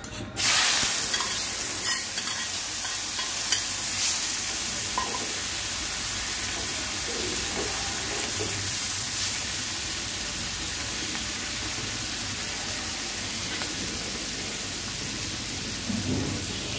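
Shrimp and sliced onion hitting hot oil in a pan, sizzling suddenly from about half a second in and then frying steadily, with a spatula stirring them now and then.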